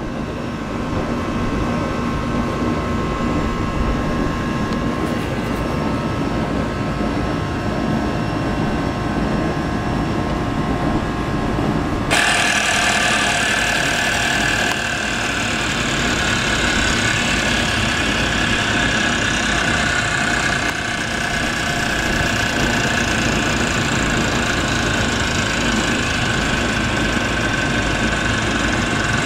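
Clockwork spring motor of a Schylling tin wind-up ocean liner toy, set going suddenly about twelve seconds in and then running with a steady whir, over the steady hum of an air conditioner.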